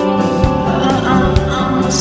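Rock band music with electric guitar and a steady drum beat, with sung notes coming in about halfway through.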